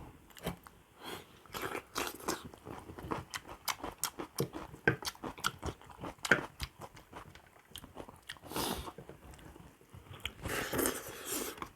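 A person chewing and biting on cooked buffalo feet close to the microphone: irregular wet clicks and smacks, with two longer rushing sounds, one about two-thirds through and one near the end.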